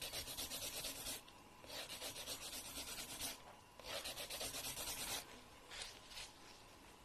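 A fingernail being filed by hand: three long rasping strokes of the file across the nail, each over a second long with short pauses between, then fainter light scratching near the end.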